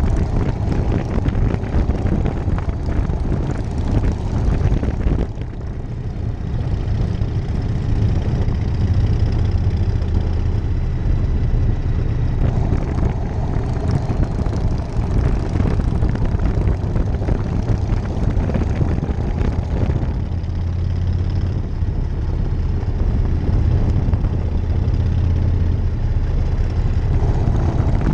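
1999 Harley-Davidson Night Train's V-twin engine running under way, heard from the rider's seat with wind rushing past. The engine eases off briefly about five seconds in, then pulls steadily again.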